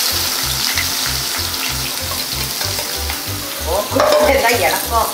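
Onions sizzling steadily in hot oil in a kadai, frying.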